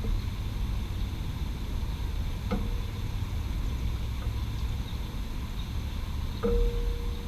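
A Ducati motorcycle's hot metal ticking and pinging as it cools: a few sharp metallic ticks, two of them ringing briefly. Under them is the steady low rumble of city traffic.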